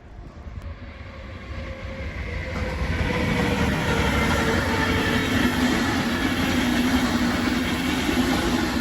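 An electric train running on the station tracks. It grows louder over the first three seconds, then holds steady as a rumble with several steady humming tones.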